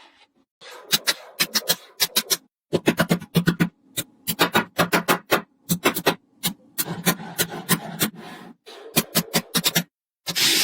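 Small magnetic balls clicking and snapping against one another in quick clusters of sharp clicks, with short silent breaks between the clusters.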